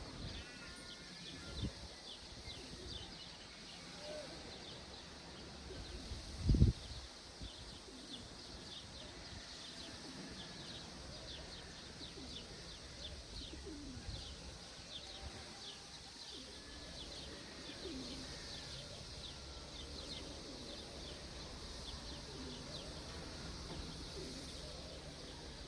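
Outdoor morning ambience of birds calling, with many short high chirps throughout and a few faint lower calls. A single loud low thump comes about six and a half seconds in.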